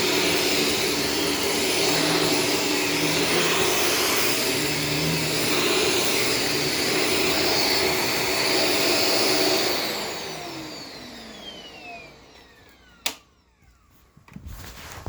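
Shark Stratos vacuum cleaner running steadily, then switched off about ten seconds in, its motor whine falling in pitch as it spins down. A single sharp click follows near the end.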